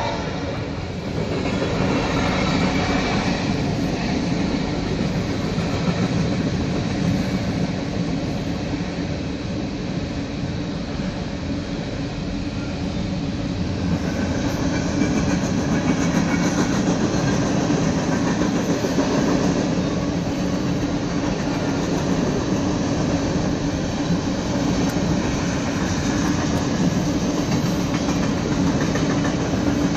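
Covered hopper cars of a freight grain train rolling past, a steady low rumble of steel wheels on rail with a clickety-clack of the wheels.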